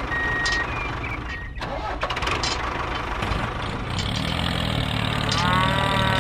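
A vehicle's reversing alarm beeping twice, then a small engine starting and running with a steady low hum.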